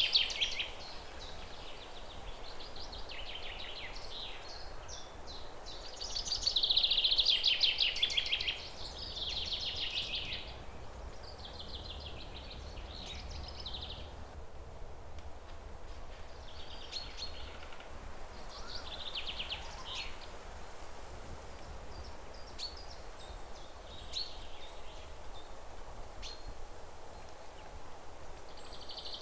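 Songbirds singing in repeated high, trilling phrases, loudest about a quarter of the way through, then thinning to sparse, fainter chirps. A low steady outdoor rumble runs underneath.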